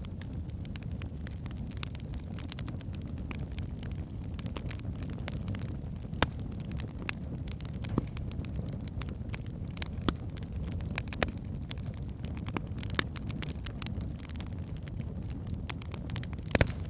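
Burning logs in a fireplace: a low steady rumble of flame with frequent sharp crackles, and a handful of louder pops scattered through, the loudest near the end.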